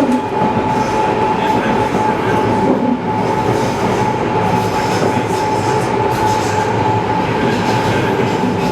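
BART rapid-transit train running, a steady loud rumble of wheels on track with a constant high-pitched whine held through it.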